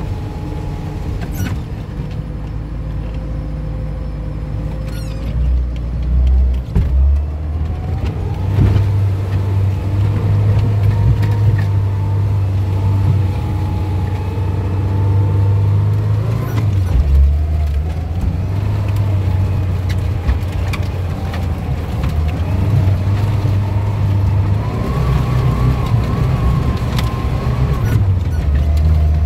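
Off-road 4x4's engine running under load, heard from inside the cabin, while it drives slowly along a flooded, muddy track. There is a steady low drone, and the engine pitch rises and falls with the throttle. A few short knocks come from the car working over the ruts.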